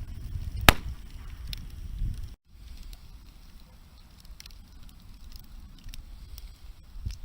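Wood fire crackling, with one loud sharp snap a little under a second in and scattered lighter pops throughout. The sound cuts out briefly after about two and a half seconds and comes back quieter.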